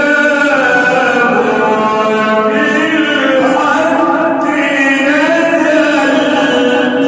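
A man reciting the Quran in melodic tajweed style, drawing out one long phrase whose pitch moves in slow steps. The phrase ends right at the close.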